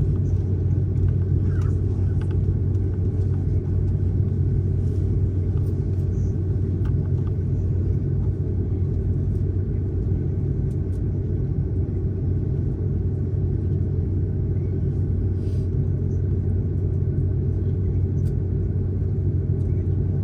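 Steady low rumble inside an airliner cabin: the jet engines and air system running evenly, with a few faint ticks.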